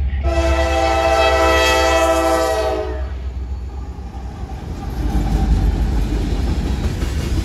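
Diesel freight locomotive's air horn sounding one long multi-note chord that cuts off about three seconds in, over the steady low rumble of the diesel engines. From about five seconds in the rumble grows louder as the locomotives pass close by.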